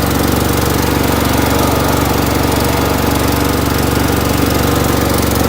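Boxer 530X mini skid steer's engine running steadily at a constant speed, with a fast, even pulse.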